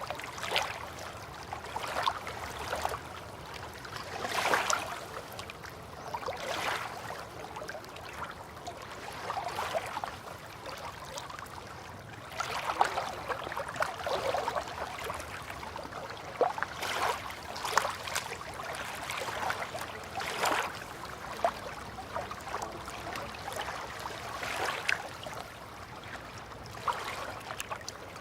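River water lapping and gurgling, with small irregular splashes every second or two over a steady wash.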